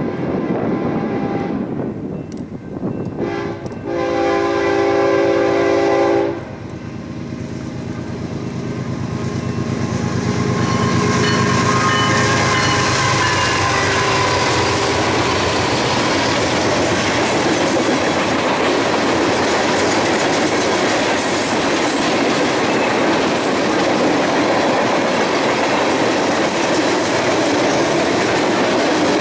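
A diesel-hauled train passes close by. The locomotive's air horn sounds short blasts, then a long one that cuts off about six seconds in. The locomotive goes by running, and the cars follow with steady wheel-on-rail clatter.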